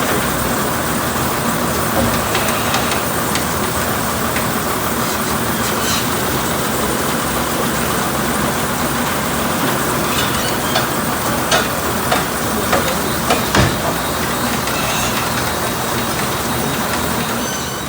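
A truck's engine running steadily, with a run of sharp clanks and knocks about ten to fourteen seconds in.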